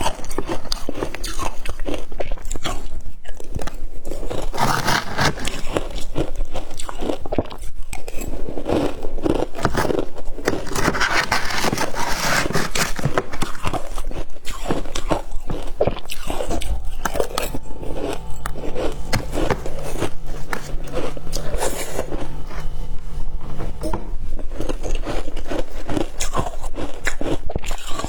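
A person biting and chewing shaved ice close to the microphone: a continuous, irregular run of crunches.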